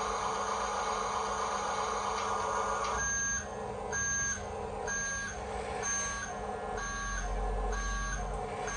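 Toy RC dump truck's small electric motor and gears whirring, joined about three seconds in by an electronic reversing beep that repeats about once a second.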